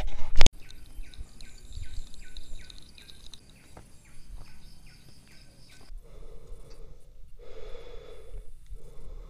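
A sharp knock at the very start, then a bird calling a quick run of repeated short chirps for about three seconds. Later come slow, heavy breaths of a hiker climbing a steep trail.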